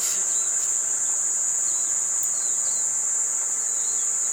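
Steady, high-pitched drone of insects calling without a break, with a few faint short chirps over it.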